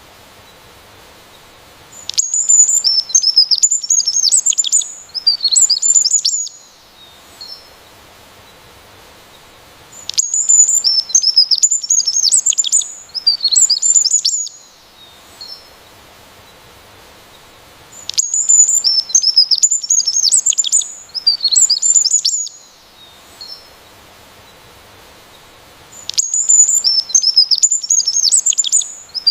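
A songbird singing bouts of rapid, high chirping notes about four seconds long. The bouts repeat every eight seconds with quiet pauses between them.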